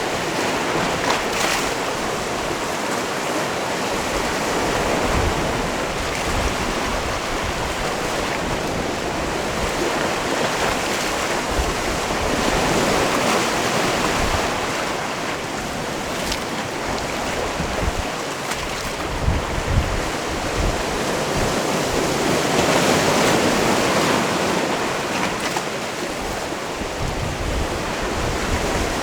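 Sea waves washing onto a rocky cove shore, a steady surf that swells and eases every few seconds. Wind buffets the microphone now and then with low thumps.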